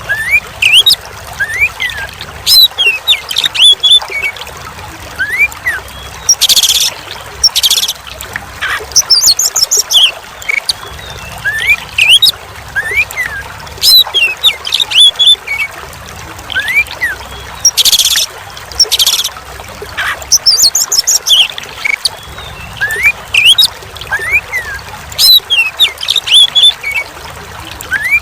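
Oriental magpie-robin (kacer) song: whistled rising and falling phrases with short harsh bursts, repeating as a loop about every eleven seconds, over a steady sound of trickling water.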